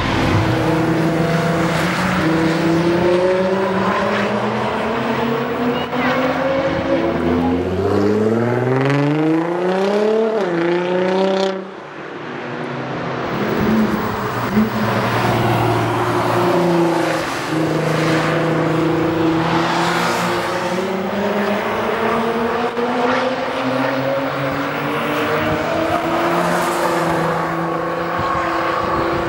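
Nissan GT-R's twin-turbo V6 running hard. Its pitch climbs steadily to a peak about eleven seconds in, drops off abruptly, then builds and varies again.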